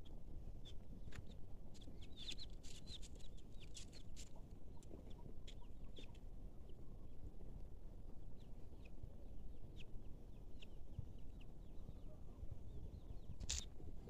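Birds chirping in short, high, scattered calls, thickest a few seconds in, over a steady low rumble. A single sharp click comes near the end.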